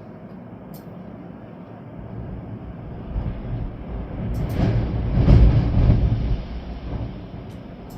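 Storm wind and rain: a strong gust swells up to a deep rumble around the middle and eases off again, over a steady hiss, with a few faint ticks.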